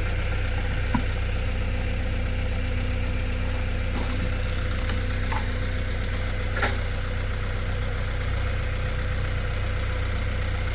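Tractor engine idling steadily, with a couple of faint knocks.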